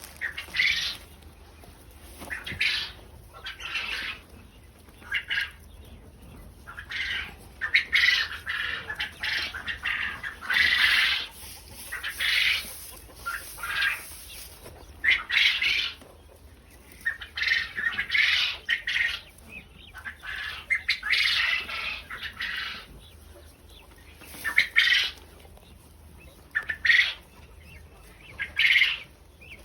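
Quail in an aviary squawking and fluttering in irregular short bursts.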